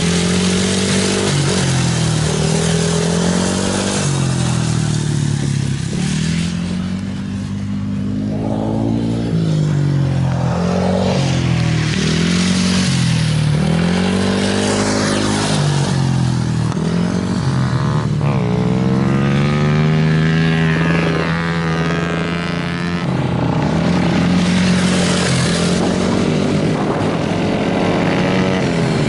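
Racing motorcycles on an ice track, engines revving up and backing off over and over as the bikes accelerate and slow, with several bikes heard at once at times.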